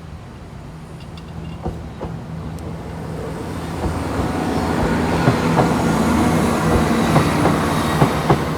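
A train approaching and passing, growing steadily louder from about three seconds in, with a low steady running note under a rushing noise. From about five seconds in, its wheels click sharply over the rail joints several times.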